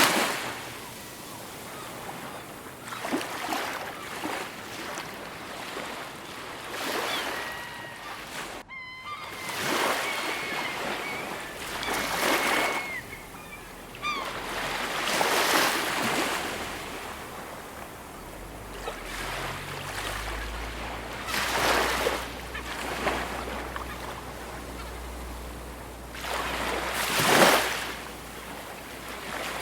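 Ocean waves breaking and washing up a shore, a new swell rising and falling every three to four seconds, with a few short bird calls in the middle.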